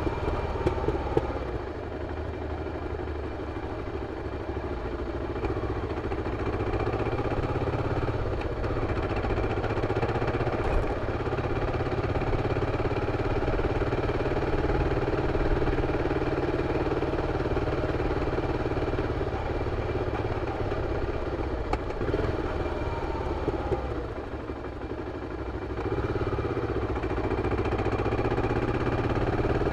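BMW F 650 CS's single-cylinder engine running through its original exhaust as the motorcycle is ridden, the engine note dropping off twice when the throttle is eased and picking back up.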